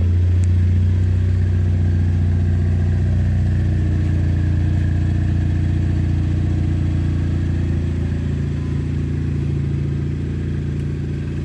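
2017 Ford Fiesta ST's turbocharged 1.6-litre four-cylinder idling after a cold start, heard through a DNA Motoring 3-inch cat-back exhaust: a steady, deep exhaust note, a little louder about a second in and easing slightly toward the end.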